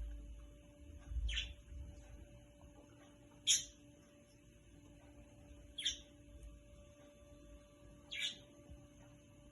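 A bird giving four short high chirps, spaced about two and a half seconds apart, over a faint low rumble in the first two seconds.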